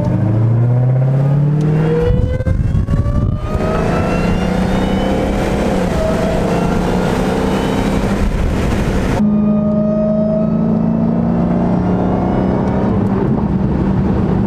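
Supercharged car engine accelerating hard, its supercharger whine rising in pitch with the revs and heard plainly through a cold air intake. There is a gear change about two seconds in, then the engine settles to steadier running, easing off about nine seconds in.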